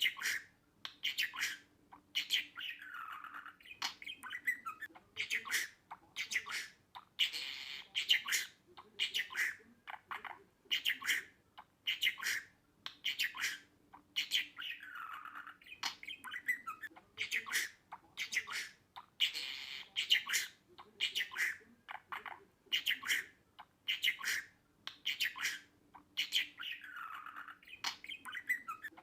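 Budgerigar chirping and squawking in a quick, unbroken string of short, sharp calls, with a longer warbling call every few seconds.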